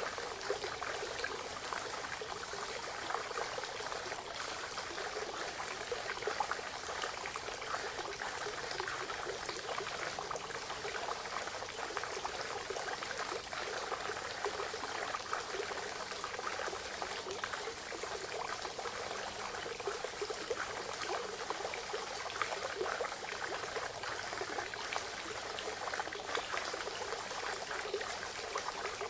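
Spring water trickling and splashing steadily into a forest pond, a continuous patter of small splashes.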